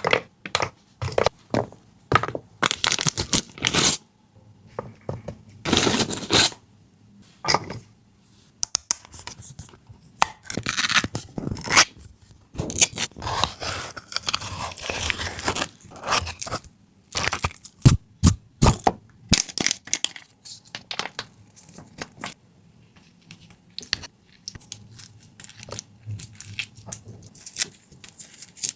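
Hands working food and kitchen materials at close range: irregular tearing and scraping with sharp clicks and knocks, and a few longer rustling stretches of about a second.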